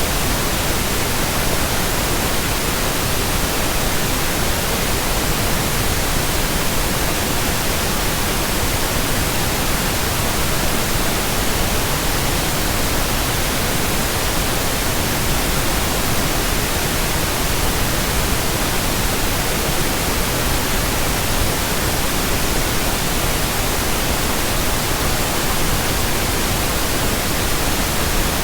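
Steady pink noise: an even, unchanging hiss that spans the whole range, from low rumble to high hiss.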